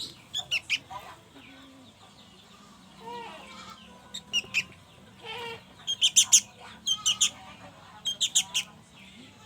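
Young sooty-headed bulbuls (kutilang) begging while being fed, in quick bursts of three to five sharp, high chirps, repeated several times with short pauses between.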